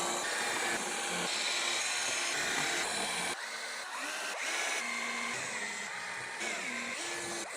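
Power drill driving screws into pallet wood boards, the motor running in repeated stretches with its pitch shifting as each screw goes in.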